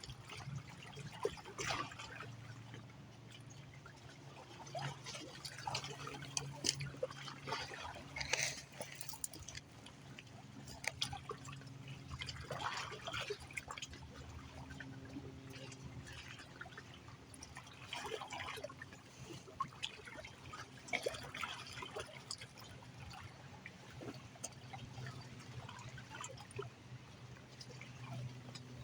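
Indian River water lapping and trickling, with small irregular splashes and drips, where the river meets the ocean. A faint steady low hum runs underneath.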